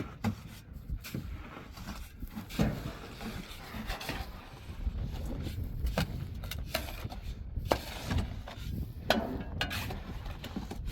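Scattered knocks and clatter over a steady low rumble.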